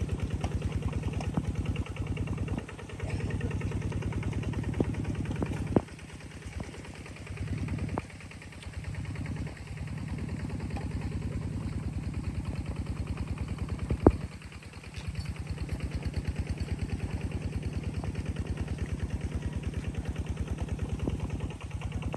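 An engine running with an even, rapid beat. Its level dips a few times, and there are a few sharp knocks, the loudest about fourteen seconds in.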